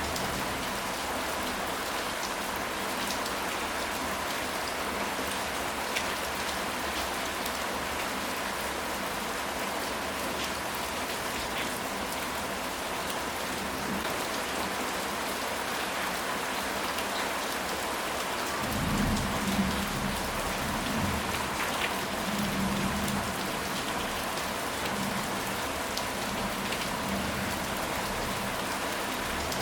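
Steady rain falling, with scattered drop ticks. About two-thirds of the way in, a low rumble of distant thunder swells and fades over a few seconds.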